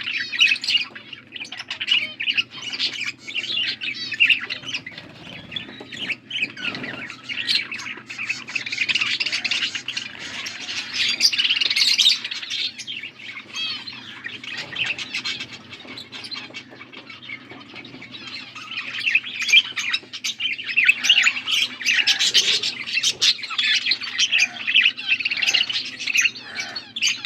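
Blue budgerigars (parakeets) chattering continuously, with rapid chirps, warbles and squawks that swell in busier spells.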